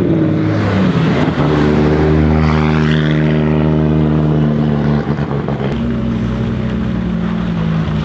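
Audi Sport Quattro S1 E2's turbocharged inline five-cylinder engine running at a steady note. Its pitch shifts about a second in, and it briefly drops near the five-second mark.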